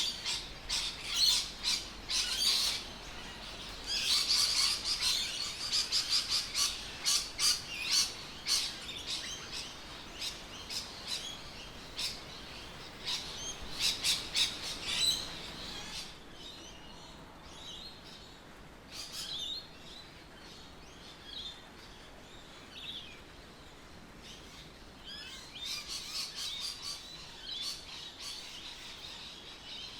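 Birds chirping: many short, quick calls, dense through the first half, thinning out, then picking up again near the end.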